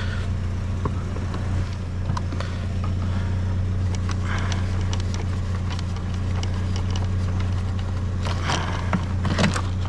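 A vehicle engine idling, a steady low hum throughout. Over it come scattered light clicks, taps and scrapes of small objects being handled, as something is pried at to get a small battery out.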